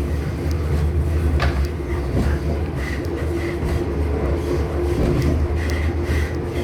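Passenger train running, heard from inside the car: a steady low rumble with a constant hum.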